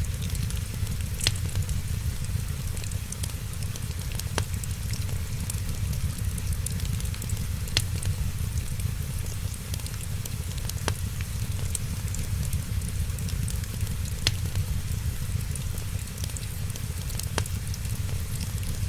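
Wood fire crackling in a fireplace: sharp pops every one to three seconds over a steady low rumble and hiss.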